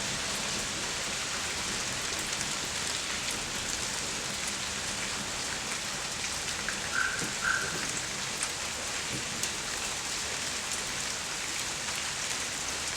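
Steady rain falling on the street and surfaces outside a house, with scattered drips. Two short high chirps come close together about halfway through.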